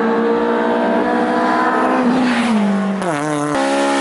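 Car engine revving hard at high rpm: a steady high engine note that falls away about two seconds in, then drops lower and stutters in quick regular pulses near the end.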